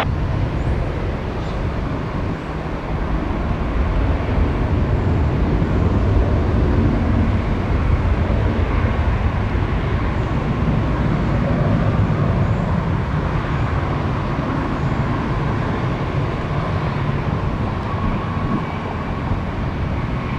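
Jet airliner engines rumbling steadily at the airport, a deep continuous roar with a faint whine on top.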